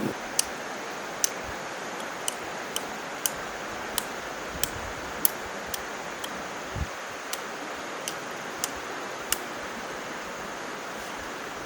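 A series of sharp, light clicks, about one every half second to second, over a steady rushing noise; the clicks stop a little after nine seconds in.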